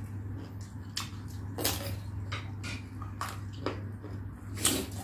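Close-miked eating sounds: wet clicks and smacks of biting into and chewing orange segments, over a steady low hum.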